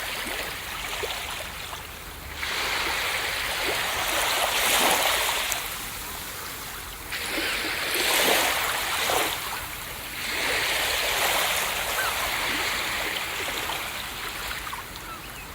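Ocean waves breaking and washing up a beach, rising in three surges a few seconds apart, each falling back with a fizzing wash.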